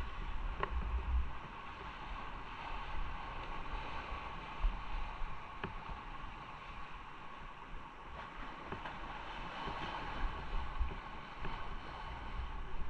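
Onboard sound of a motorcycle on the move: wind buffeting the microphone in uneven low gusts over a steady hum of engine and road.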